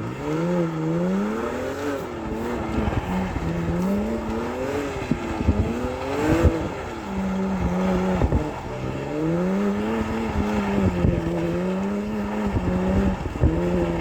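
Straight-piped BMW E92 328i inline-six being worked on and off the throttle while drifting, its engine note rising and falling over and over, with a steady rushing noise underneath.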